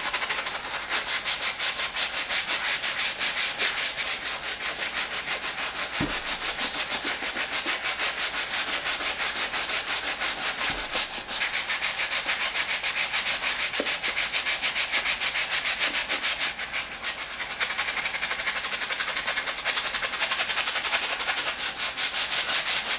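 Medium bristle brush scrubbing a sneaker's midsole in rapid, steady back-and-forth strokes, the bristles making a continuous scratchy rubbing.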